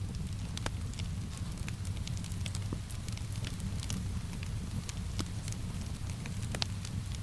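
Wood fire crackling, with many small irregular pops and snaps over a steady low rumble, and one sharper pop near the end. A soft steady hiss of rain runs underneath.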